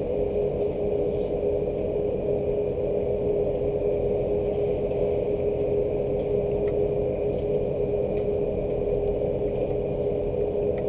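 A steady low mechanical hum holding one constant tone, with a few faint light ticks over it.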